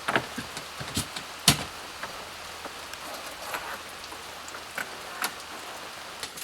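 Heavy rain suddenly pouring down, a steady hiss with scattered louder drops striking close by, the sharpest about a second and a half in.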